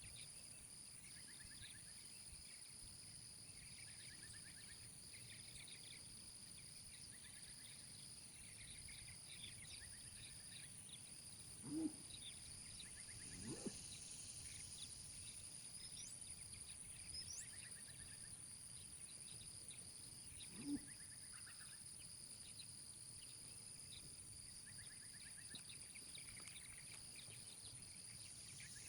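Quiet rural background of insects and birds trilling steadily, with three short low animal calls near the middle.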